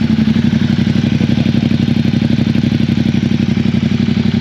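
Ducati 1260 DVT V-twin engine running loud and steady, with an even, rapid exhaust pulse at a constant engine speed.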